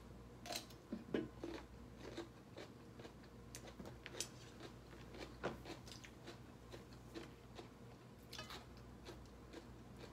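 Mouth sounds of eating: a bite into a fresh green chili pepper near the start, then chewing with scattered small crunches and clicks.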